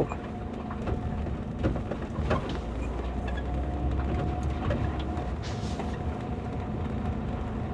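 Car cabin noise while driving slowly on a rough road: a steady low engine and tyre rumble with a few light knocks, from loose seat-belt straps that have not been tightened.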